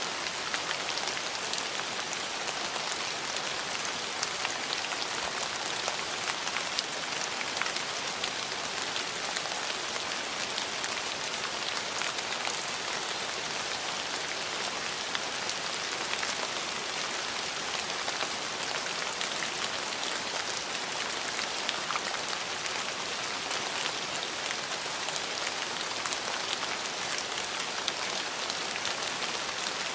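Steady rain falling on a hard surface, an even hiss with many distinct drops pattering through it and no change in strength.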